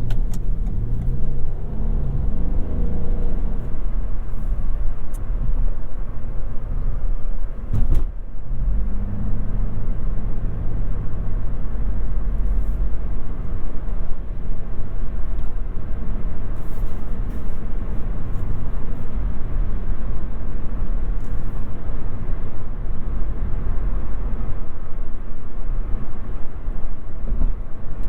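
Toyota Yaris 1.5 Hybrid driving: steady low road and tyre rumble, with the three-cylinder petrol engine's hum rising in pitch near the start and again around nine seconds in. A single knock about eight seconds in.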